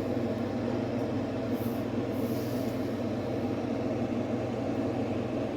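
Steady low mechanical hum of an appliance running in the room, even and unchanging.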